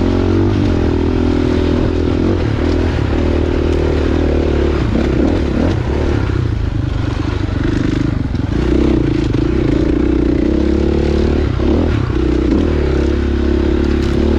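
Dirt bike engine running while riding a trail, its note dipping and climbing a few times with the throttle.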